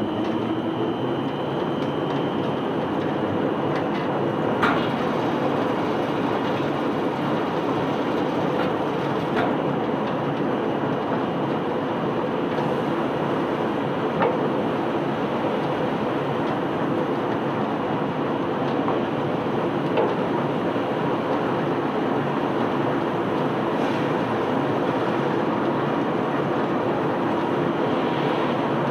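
Ship's conveyor belt running steadily while unloading sand: a continuous mechanical noise with a faint steady hum, broken by a few single knocks.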